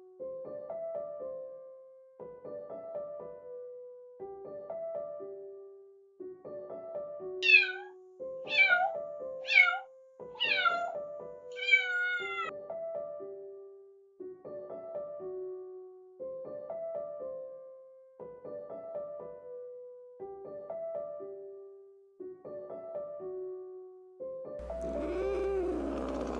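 A kitten meowing five times in quick succession, each call high and falling in pitch, about seven seconds in, over gentle piano background music that repeats a short phrase every two seconds or so. Near the end a louder, longer cat cry begins.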